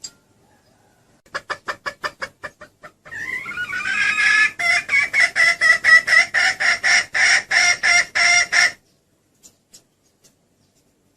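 Female junglefowl (hen) calling: a quick run of short clucks that fades away, then a louder, longer series of rhythmic cackling notes, about four or five a second, that stops abruptly. This is the hen's call used to lure a jungle cock.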